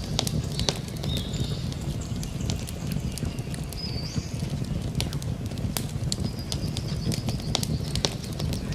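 Campfire crackling, with frequent sharp irregular pops over a low steady rumble of the burning fire. A few short high bird chirps and whistles come in now and then, one sliding upward about four seconds in.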